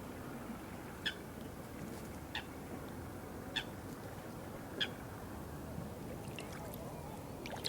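Steady flowing water with a bird repeating a short, sharp call four times, about every second and a quarter; a few faint clicks near the end.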